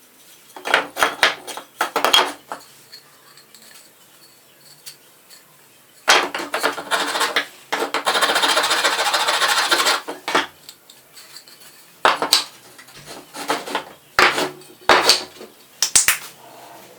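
Hand-tool work on a wooden chair: irregular knocks and metallic clatter of tools and parts, in three bursts. Near the middle comes a steady rubbing noise of about two seconds.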